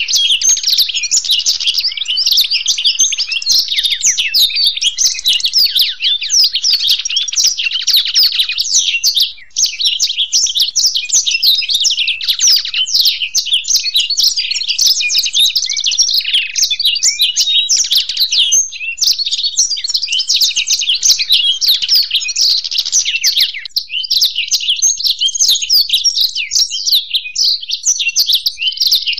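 Black-throated canary and European goldfinch singing together: rapid, unbroken high-pitched twittering and trills, with a brief break about nine seconds in.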